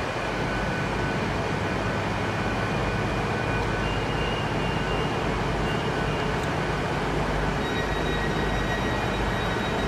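CrossCountry Class 221 Super Voyager diesel-electric multiple unit standing at the platform with its underfloor diesel engines running steadily: a low drone under a wash of noise, with thin high whines, one more joining about four seconds in.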